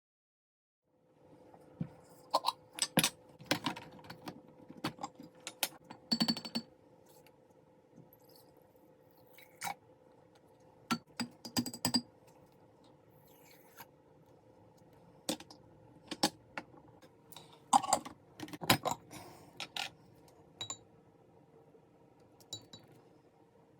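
Scattered clinks and knocks of hard objects being handled, a few with a short glassy or metallic ring, over a steady low hum. The clinks come in clusters, busiest in the first few seconds and again about two-thirds of the way through.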